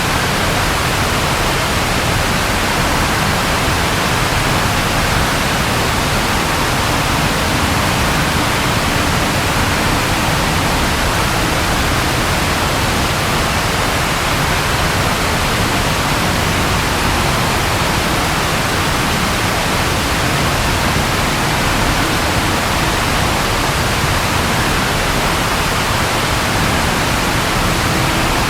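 Steady rain: an even, unbroken hiss with no distinct drops or thunder standing out.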